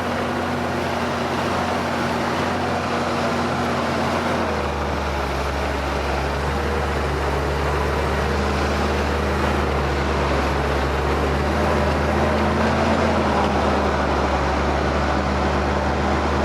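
Ford TW tractor's diesel engine running steadily under load while ploughing. Its note drops to a lower pitch about four and a half seconds in and stays there, rising a little for a moment near the thirteen-second mark.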